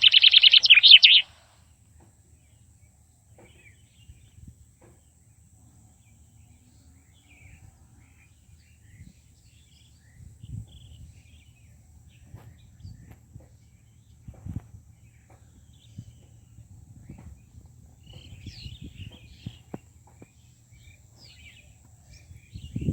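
A bird's fast, high chattering call, loud, stopping about a second in. After that come faint, scattered bird chirps over a low rumbling noise.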